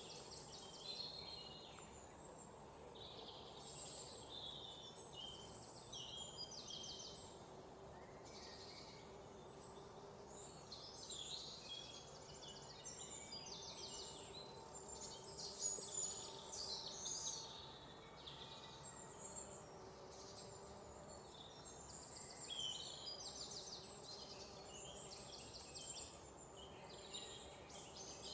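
Several songbirds chirping and trilling, many short high notes and quick rattling trills overlapping throughout, over a faint steady background hiss.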